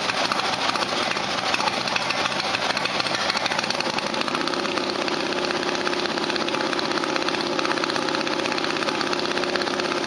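Harley-Davidson V-twin motorcycle engine running at idle with a rapid, steady pulse. About four seconds in its note settles into a steadier, more even tone.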